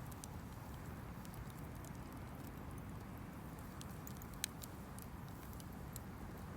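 Campfire burning, wood giving scattered small crackles over a low steady rumble, with one sharper pop about four and a half seconds in.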